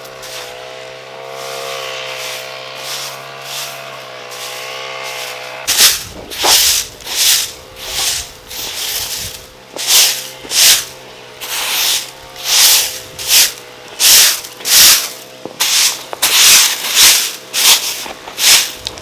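Repeated scraping strokes, about one and a half a second, starting about six seconds in and running steadily. Before them there is a steady, wavering hum.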